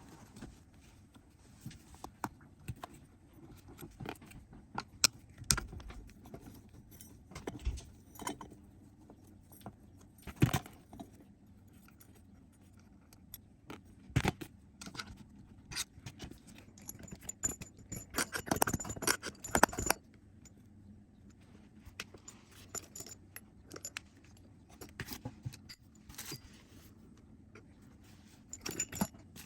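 Metal tools and small metal parts clinking, knocking and scraping during hand work on a pocket bike, with a quick run of rattling clicks about two thirds of the way through.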